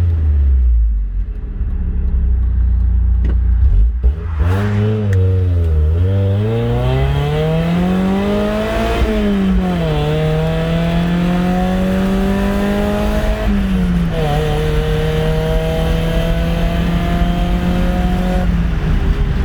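Mazda Miata 1.8-litre four-cylinder engine breathing through a cheap eBay header, Borla dual exhaust and MagnaFlow resonator, pulling up through the gears. The engine note climbs and drops sharply at upshifts about nine and thirteen seconds in, then holds a fairly steady cruise before falling off near the end.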